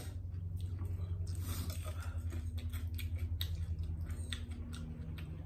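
Close-up mouth eating sounds: crisp cucumber slices and noodles being bitten and chewed, heard as a run of small crunches and wet clicks. A steady low hum runs underneath.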